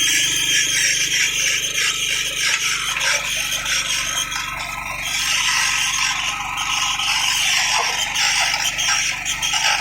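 Rail drilling machine boring a hole through a steel rail, a steady grating, scraping noise of the bit cutting metal.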